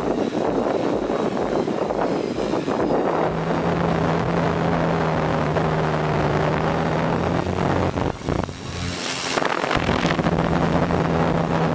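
RHEA 160 hexacopter in flight, its onboard generator and large propellers giving a steady low drone under gusty wind buffeting the microphone. About a second before the end, the hum dips for about a second as a rush of hiss swells.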